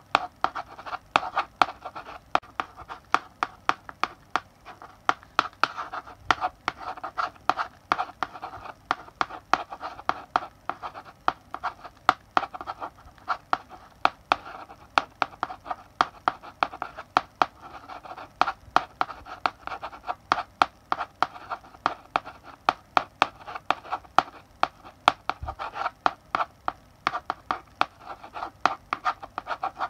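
Chalk writing on a blackboard: a quick, irregular run of taps and short scratchy strokes as letters are written, with no squeak.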